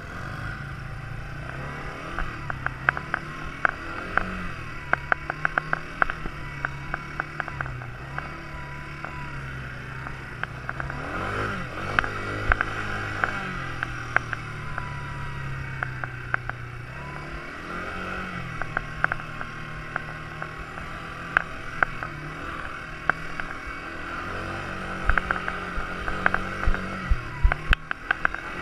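Quad bike engine running, its pitch rising and falling again and again as the throttle is opened and eased off, with many sharp clicks and knocks over it.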